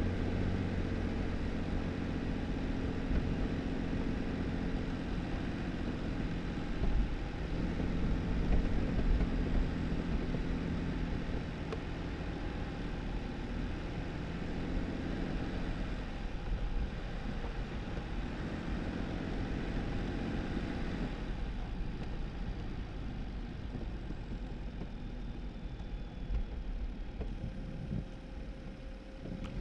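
Jeep Wrangler driving slowly on a snow-covered dirt road: a steady engine hum with tyre noise over snow and gravel. About two-thirds of the way through it turns quieter and duller.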